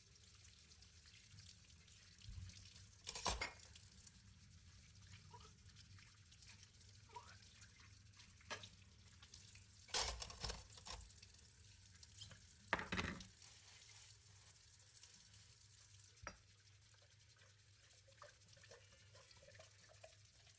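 Hand-washing dishes at a kitchen sink: a faint trickle of water with a few sharp clinks and clatters of dishes, loudest about 3, 10 and 13 seconds in, with a last clink about 16 seconds in.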